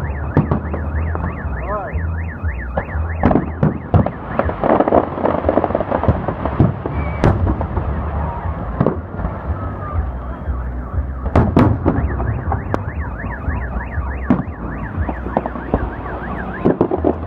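Fireworks salute going off with repeated sharp bangs and crackles. A car alarm wails in a fast, regular warble over them; it drops out for several seconds and starts again about twelve seconds in.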